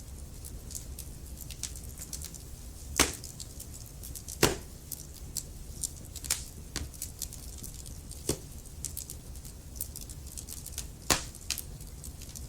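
Burning logs crackling in a fireplace: a steady patter of small sharp clicks, with four louder pops spread through, over a low steady rumble.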